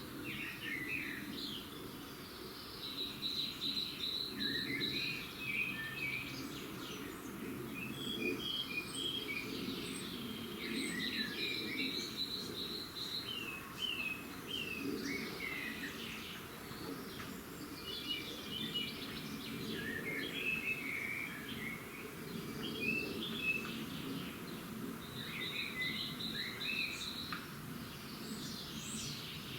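Several songbirds singing in a dawn chorus. A rapid high trill recurs every few seconds among varied short chirps and warbled phrases, over a steady faint background noise.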